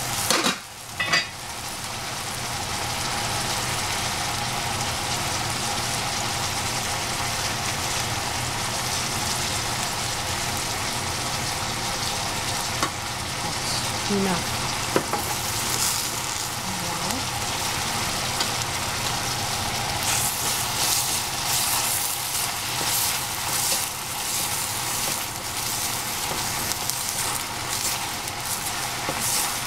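Eggplant and squash sizzling in a pan, a steady frying hiss with a couple of utensil knocks about a second in. From about two-thirds of the way through, the sizzle turns crackly with frequent pops.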